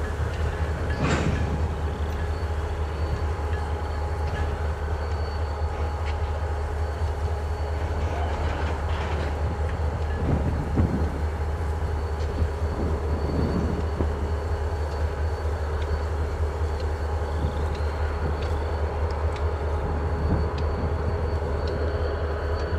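Freight train in a rail yard: a steady low drone with a few scattered knocks and clanks from the cars.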